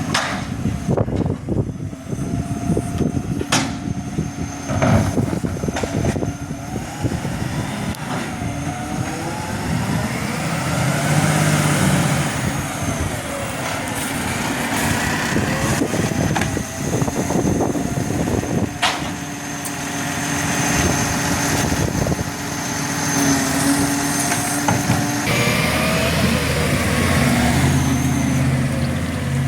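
Garbage truck at work: its diesel engine runs and revs up and down, with whining rises and falls in pitch and a few sharp clanks.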